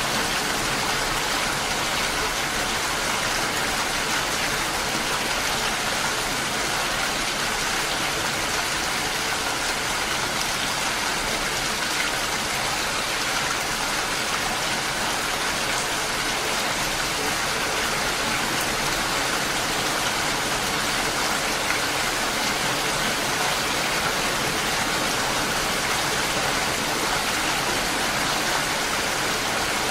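Steady rain falling, an even hiss of many drops with faint individual drop ticks, no change in intensity.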